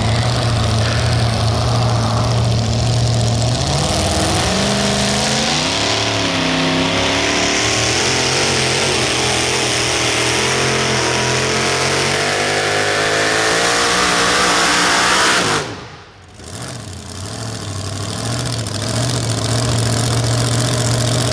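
Super modified four-wheel-drive pulling truck engine idling, then revving up and climbing in pitch under load. About fifteen seconds in the sound cuts off sharply, and a steady idle picks up again near the end.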